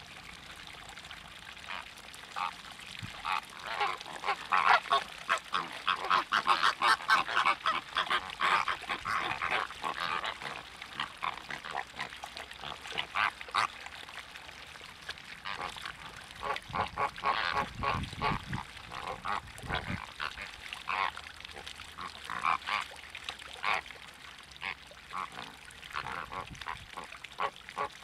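A flock of waterbirds calling together: many short calls in quick succession, thick and overlapping in busy stretches and thinning out in lulls. A low rumble joins in briefly past the middle.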